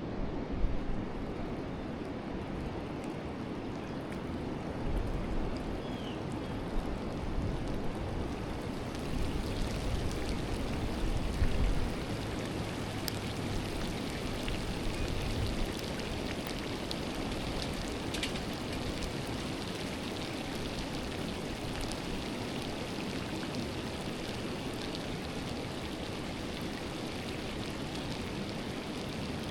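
Forest river flowing: a steady rush of water, with a low rumble under it for about the first twelve seconds.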